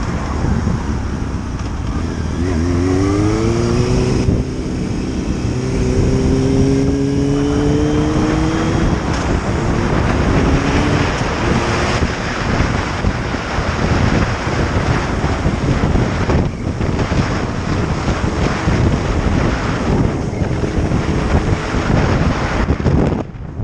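Motorcycle riding along, heavy wind rushing over the microphone. A few seconds in the engine note rises as it accelerates, then holds steady for several seconds before sinking back under the wind.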